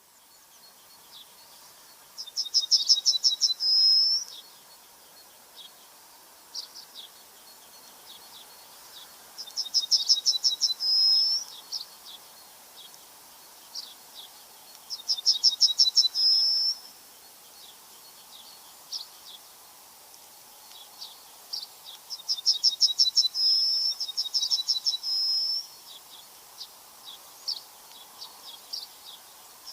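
A songbird singing: a fast, high trill of about a dozen notes ending in a brief steady note, repeated every six or seven seconds, with scattered single chirps between the phrases.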